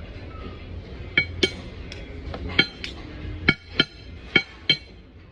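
Cutlery clinking against dishes: about seven sharp, ringing clinks in a few seconds.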